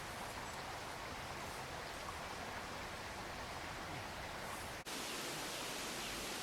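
Steady, even rushing noise, with a split-second dropout about five seconds in where the recording cuts.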